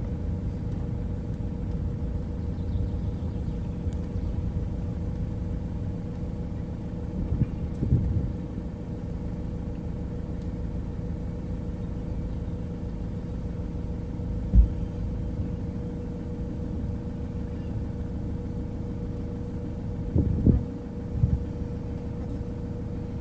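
Steady low rumble of a running vehicle with a constant hum, broken by a few short thumps.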